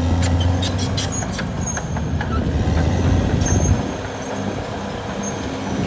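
Caterpillar D6R XL bulldozer's diesel engine running steadily under load, with scattered sharp metallic clanks. The engine eases off about four seconds in and picks up again near the end.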